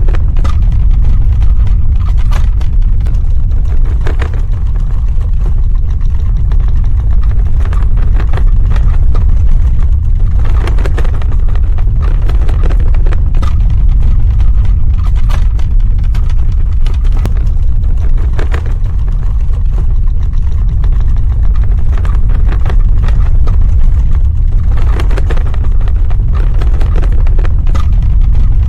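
Earthquake sound effect: a steady, deep rumble with frequent short cracks and crackles scattered over it.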